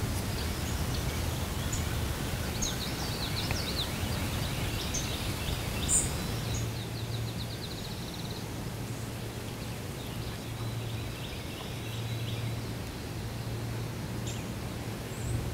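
Outdoor morning ambience with songbirds chirping, including a fast trill about seven seconds in, over a low hum that comes and goes. A sharp click sounds about six seconds in.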